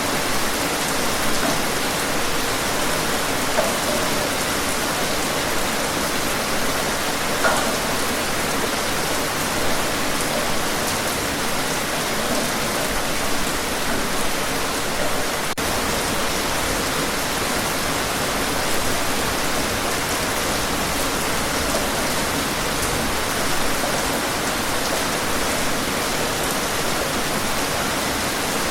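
Steady rain, an even hiss with a few brief louder splashes.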